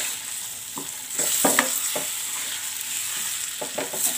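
Raw mango pieces sizzling in hot mustard oil with ground spices and turmeric as they are stirred in a pan, the sizzle growing louder about a second in. The stirring spoon scrapes and clicks against the pan several times.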